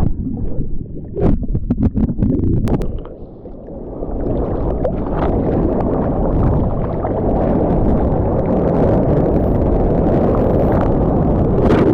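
Loud rushing wind-and-water noise buffeting the microphone, as on a boat under way, with a few sharp knocks in the first three seconds. It drops briefly, then runs on as a steady low rush.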